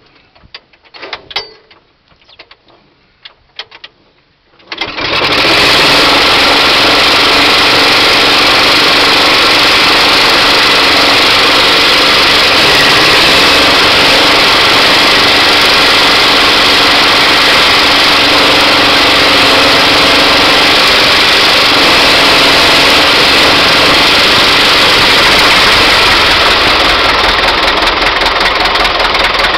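After a few faint clicks, the T-100MZ tractor's small two-stroke petrol starting engine fires abruptly about five seconds in and runs loud and high-revving, cranking the main diesel. Near the end a deeper, rhythmic beat joins in as the diesel begins to fire.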